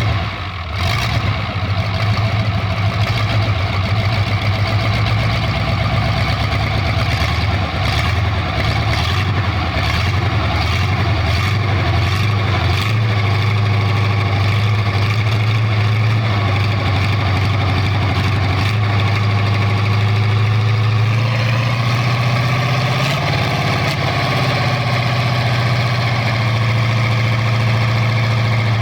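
Cummins 504 marine diesel engine running steadily at idle with a deep, even throb. About three-quarters of the way through its pitch shifts briefly, then settles back.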